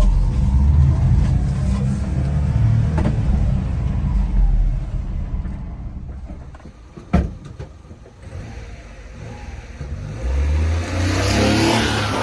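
1996 Honda Acty mini truck's small three-cylinder engine running. It is loud for the first few seconds, eases off about five seconds in, and builds again near the end, with one sharp click about seven seconds in.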